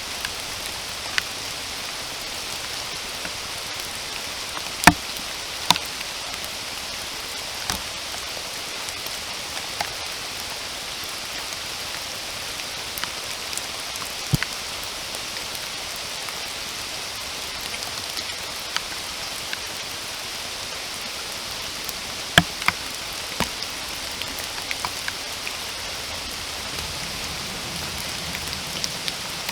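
Steady rainfall, an even hiss of drops, with sharp taps here and there where single large drops land close by. The loudest taps come about five, fourteen and twenty-two seconds in.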